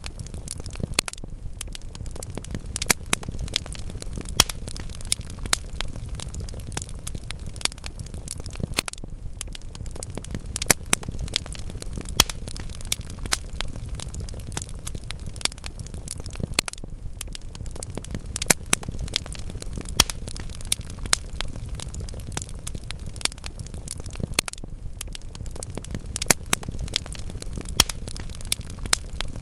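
Wood logs burning in a fireplace: an irregular crackle of sharp pops, several a second, over a steady low rumble of the flames.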